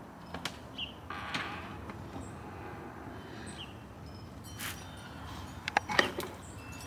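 Outdoor ambience with a few short, high bird chirps and scattered sharp clicks and taps. A cluster of louder taps comes near the end.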